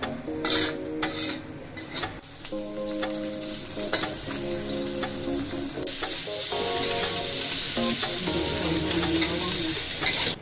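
Dried shrimp sizzling in oil in a wok, with a metal spatula scraping and clicking against the pan as it is stirred, then a louder, steady sizzle about six seconds in as diced yam (taro) fries.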